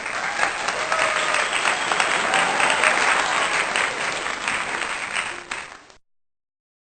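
Crowd applauding: dense clapping that stops abruptly about six seconds in.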